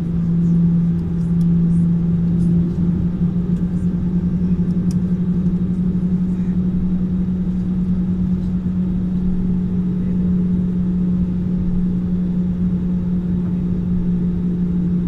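Jet airliner engines heard inside the cabin: a steady drone with a strong low hum that steps slightly higher in pitch about three seconds in, over a constant rumble.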